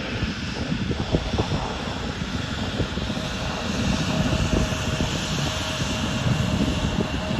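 Airplane engines running: a steady low rumble, joined about three seconds in by a thin steady whine.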